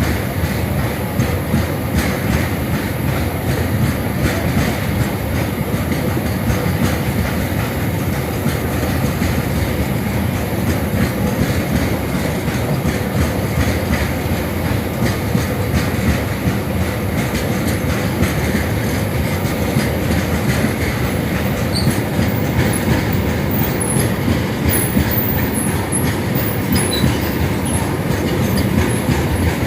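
Indian Railways freight train's wagons rolling past, a steady rumble of wheels on rail with clickety-clack. Short high-pitched squeaks come in over the last third.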